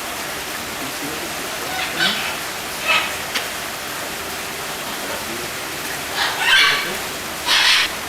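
A steady rain-like hiss with several short bird calls over it: two about two and three seconds in, and a louder pair near the end.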